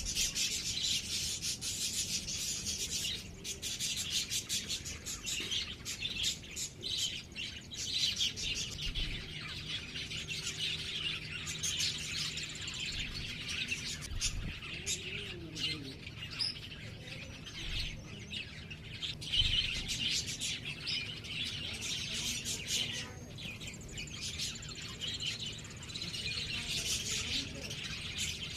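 Small birds chirping: a dense, rapid stream of high chirps that keeps going throughout.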